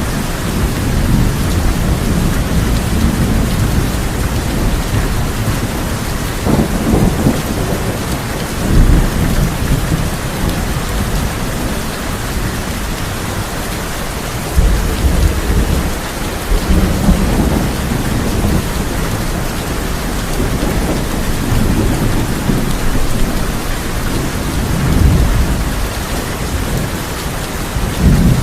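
Steady heavy rain falling on a tin roof, with low thunder rumbling up several times, strongest about nine seconds in, around fifteen to seventeen seconds, and near the end.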